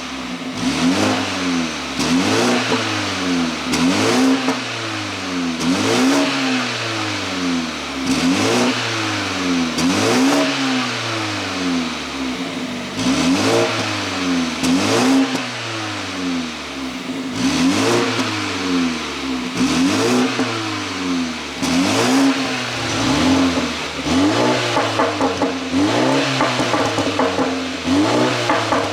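BMW G20 330i's 2.0-litre turbocharged four-cylinder engine, ECU-tuned, free-revving over and over, about every two seconds. As each rev drops, the exhaust crackles and pops on the overrun, the burbling that the tune is set up to make.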